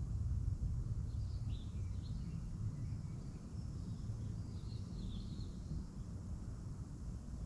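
A few short bird chirps, in one cluster about a second and a half in and another around five seconds in, over a steady low rumble.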